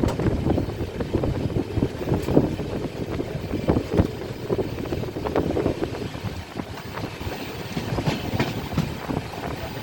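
Padatik Express passenger train running at speed: a steady rumble of the coaches with irregular clacks and knocks of the wheels over the rails.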